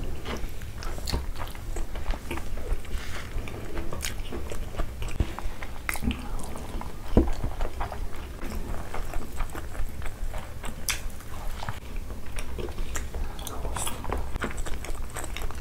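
Close-miked chewing and biting of two people eating mouthfuls of rice and chicken liver curry by hand, with many short mouth clicks, over a steady low hum.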